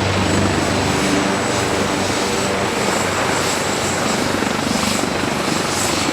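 AgustaWestland AW139 helicopter running close by: its turboshaft engines give a steady high whine over the loud continuous rush of the rotor. The low rotor beat eases off about a second in.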